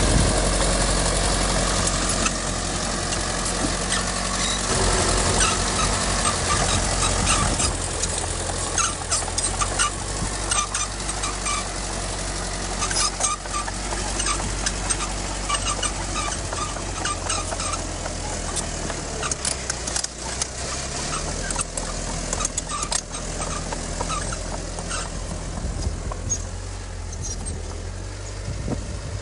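Heavy earthmoving machinery's diesel engine running steadily, a little louder at first and easing slightly later. Through the middle, many short clicks and chirps sound over it.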